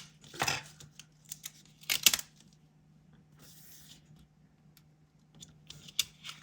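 Tape and paper being handled on a desk while a strip of PET tape is laid down and pressed onto a planner page. A few sharp clicks and taps come through, the loudest about two seconds in, with a soft rustle around the middle.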